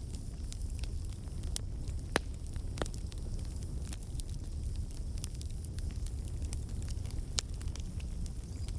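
Wood campfire burning: a steady low rumble of flames with irregular sharp pops and crackles from the burning logs, the loudest pops about two seconds in, again just under three seconds in, and near the end.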